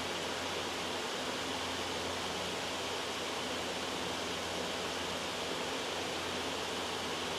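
Steady white noise: an even, unchanging hiss with a low hum underneath.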